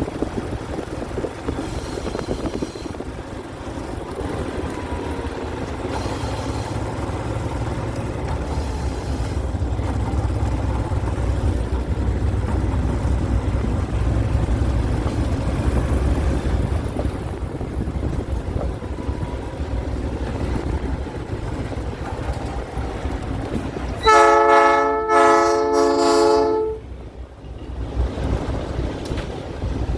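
Diesel-hauled train rumbling steadily along the track. Near the end the lead GE C36-7 locomotive's multi-note air horn sounds for about three seconds in short pulses.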